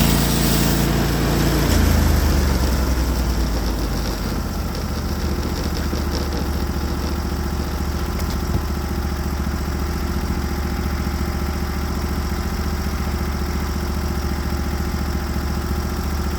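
Norwood HD36v2 portable sawmill's engine running steadily. A harsher, louder sound at the start fades out over the first few seconds, leaving the engine running evenly at a slightly lower level.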